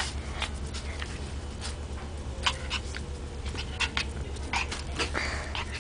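Papillon puppy at play, making scattered short clicks and scuffles, with a brief rustle about five seconds in. A steady low hum runs underneath.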